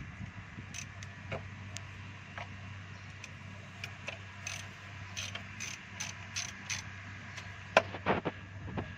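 Hand ratchet clicking in short irregular runs while working the 10 mm ignition-coil bolts on a 2012 Kia Cerato/Forte engine, with a sharper metal knock near the end.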